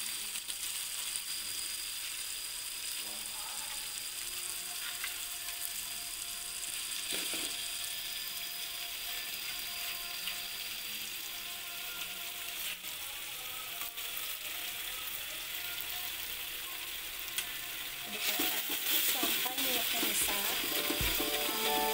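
Ground chili balado paste with freshly added ground tomato sizzling steadily in a wok. Near the end a metal spatula stirs and scrapes through it and the sizzle gets louder.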